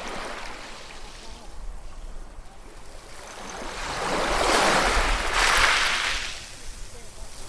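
Ocean waves: a wave swells, breaks with a rising hiss and fades a few seconds in, over a softer continuous wash of surf.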